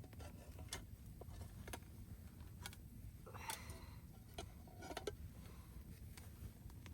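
Faint sharp ticks, about one a second, with two short scraping sounds in the middle, over a low steady rumble.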